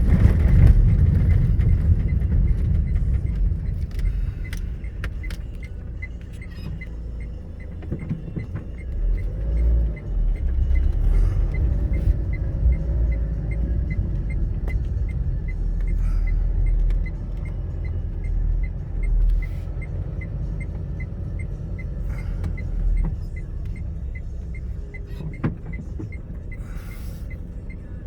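Low rumble of road vehicles running, swelling and easing as traffic moves, with a steady ticking of a car's indicator about twice a second.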